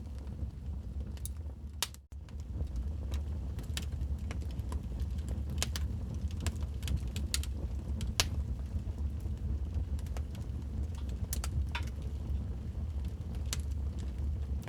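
Wood fire in a fireplace crackling, with irregular sharp pops and snaps over a steady low rumble. The sound drops out for an instant about two seconds in.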